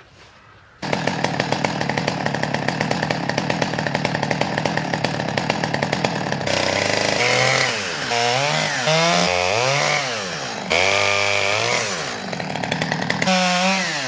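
Chainsaw coming in suddenly about a second in and running steadily. From about halfway its pitch swings up and down again and again as it is revved and eased off while trimming branches off the felled tree.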